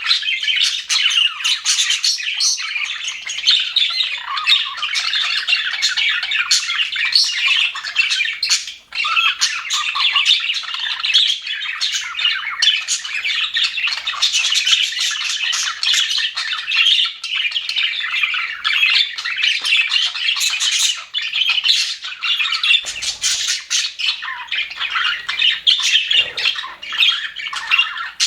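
A flock of budgerigars chattering together: a dense, unbroken mix of chirps, warbles and squawks from many birds at once.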